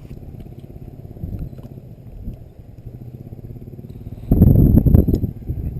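Wind buffeting the microphone in a low rumble, with a stronger gust about four seconds in.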